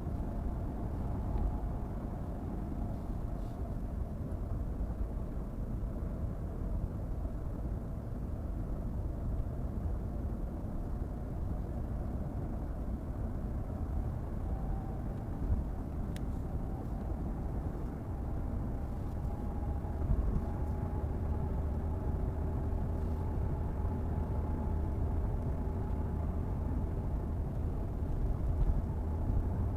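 A car being driven, heard from inside: a steady low rumble of engine and tyres on the road. It grows a little louder and fuller in the second half, as if the car is pulling harder or speeding up.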